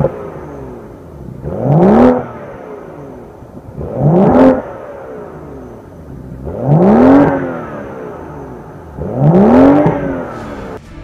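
BMW 640i's 3.0-litre turbocharged inline-six engine revved in four loud blips, each rising in pitch and falling back to idle, about every two and a half seconds.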